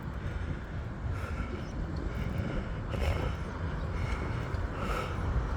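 Steady low rumble of street traffic, with a couple of faint short sounds about three and five seconds in.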